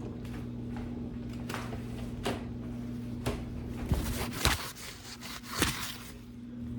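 Scattered light knocks and clicks of kitchen handling, about seven spread through, over a steady low hum.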